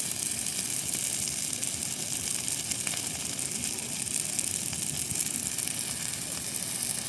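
Large bonfire of discarded Christmas trees burning: a steady hiss with scattered faint pops.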